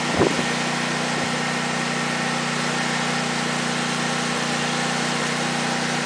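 Steady mechanical hum, like an idling engine, with an even hiss and one brief knock about a quarter second in.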